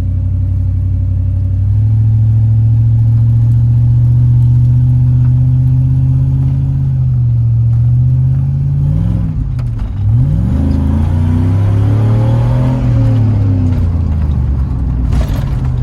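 Chevrolet Silverado pickup engine with its muffler deleted, pulling hard under load. The revs climb and hold, then flare and drop sharply about two-thirds of the way through before climbing again. This goes with the worn 4L60E automatic slipping and shifting.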